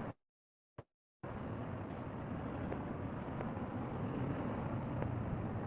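Steady low rumble of a running vehicle or nearby traffic, after the audio drops out entirely for about the first second.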